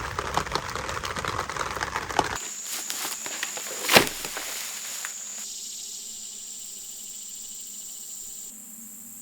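Insects trilling with a steady high buzz, with one sharp knock about four seconds in. It is preceded by a couple of seconds of dense crackling noise.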